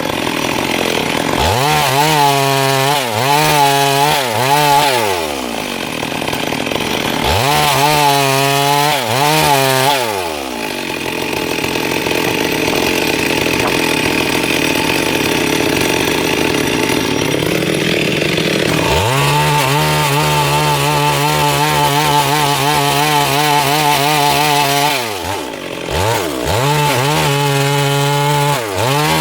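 Stihl MS382 two-stroke chainsaw revving up and down in repeated throttle blips, then cutting into wood for about eight seconds, the chain's rasping noise covering the engine note. It then runs at steady high revs, drops briefly and revs again near the end.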